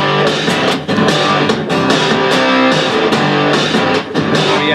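Electric guitar strummed in a steady rhythm with a big, noisy fuzz tone: a Telecaster played through a 1960s Fender Tremolux head and a Marshall cabinet.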